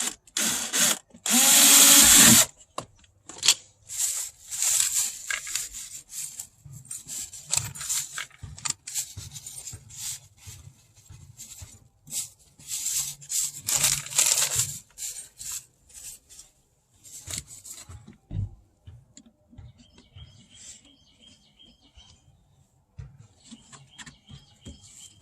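A power drill runs in one short, loud burst about a second and a half in, drilling a hole for a speaker mounting screw. Scattered scraping and handling noises follow, fading out after about eighteen seconds.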